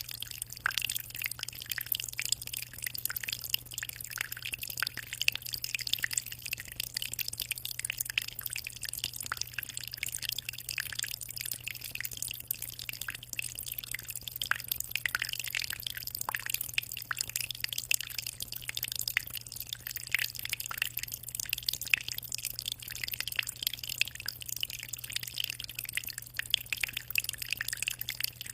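Aquarium water moving at the surface, most likely a filter's return flow: a constant, dense patter of small drips and splashes. A steady low hum runs underneath.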